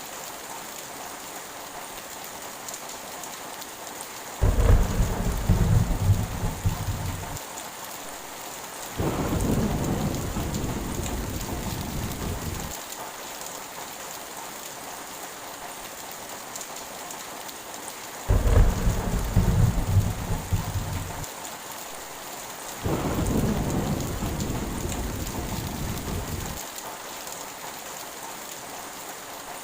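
Heavy rain falling steadily, with four rolls of thunder of a few seconds each, about 4, 9, 18 and 23 seconds in.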